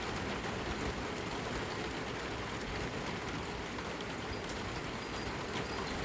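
Steady heavy rain falling, an even hiss with a few faint ticks of drops.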